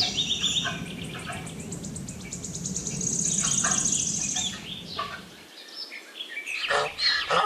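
Tapir calling in short, high-pitched, chirpy squeaks and whistles, over a low background hum. A fast, very high trill of rapid ticks runs for about a second and a half, starting about three seconds in.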